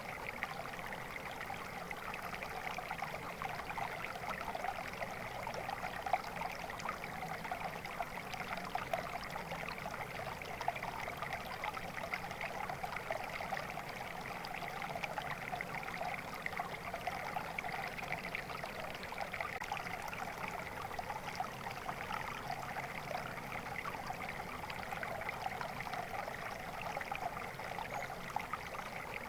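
Water flowing steadily in a small stream, an even babbling and trickling with a fine crackle.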